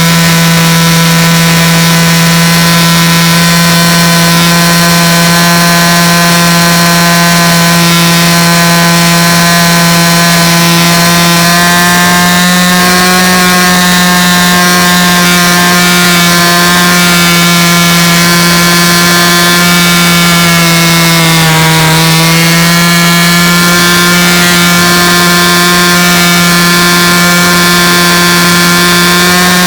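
A loud, steady machine drone: one low hum with many overtones, its pitch rising slightly about twelve seconds in and dipping briefly a little after twenty seconds.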